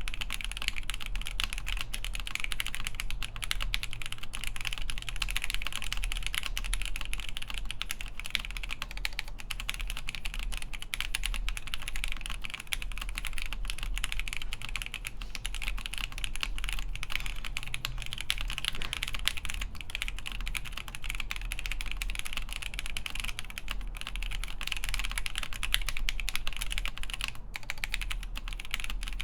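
Continuous fast typing on a mechanical keyboard with lubed Alpaca v2 linear switches on an FR4 plate under Hammerworks CRP APL keycaps: a dense, even stream of key clicks and bottom-outs with no pauses.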